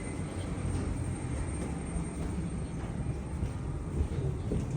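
Steady low rumble of jet aircraft noise around a parked Embraer E190 airliner during boarding, with a thin faint high whine over it and a few soft knocks.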